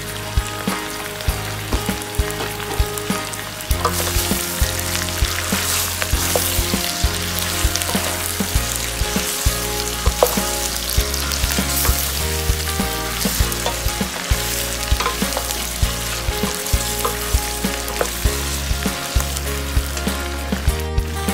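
Pieces of roast pork sizzling as they fry in a stainless steel pot, with a wooden spoon stirring them and clicking against the pot; the sizzle grows louder about four seconds in. Soft background music with a stepping bass line plays underneath.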